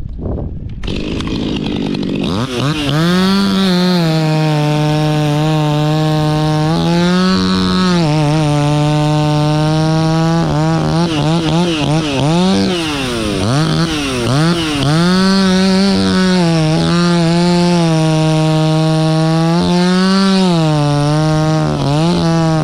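Two-stroke chainsaw throttling up about two seconds in, then running at full throttle as it cuts into kapok wood. Its pitch sags and recovers several times as the chain loads in the cut.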